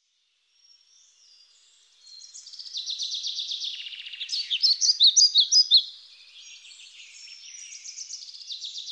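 Small songbirds singing: fast trills, with a run of louder, separate chirping notes in the middle.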